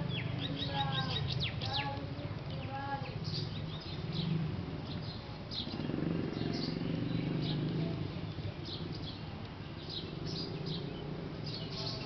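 Small birds chirping, with many short, high, quick notes throughout. During the first three seconds a lower call of descending notes repeats about four times. A steady low hum lies underneath.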